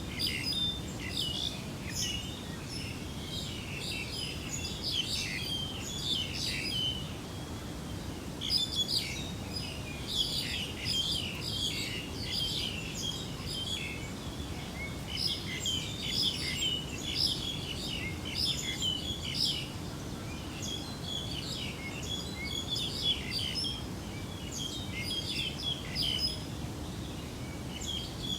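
Several small birds chirping and calling over one another without pause, over a steady low background noise.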